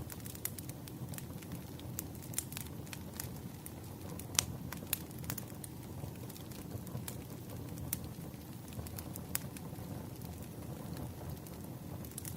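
Wood fire burning: a steady low rumble of flames with irregular crackles and sharp pops from the burning logs, a few louder snaps among them.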